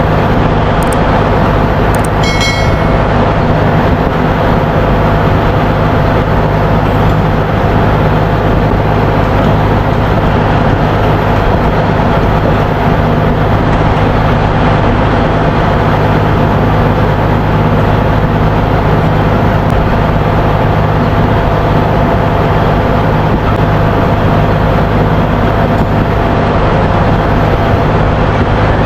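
Loud, steady drone of running machinery in a ship's engine room, with a short high-pitched metallic ring about two seconds in.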